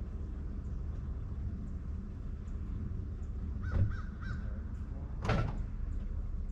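Two short, harsh bird calls about a second and a half apart, the second louder, over a steady low rumble.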